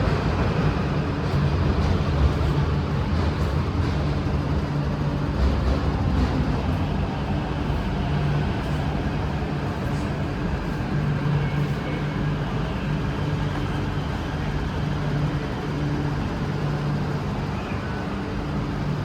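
MTR Kwun Tong line electric train running, a steady rolling rumble with a low, even motor hum.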